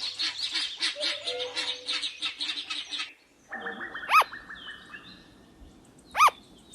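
Guinea fowl calling: a fast, rattling chatter for about three seconds that stops abruptly, then two short, sharp single calls a couple of seconds apart.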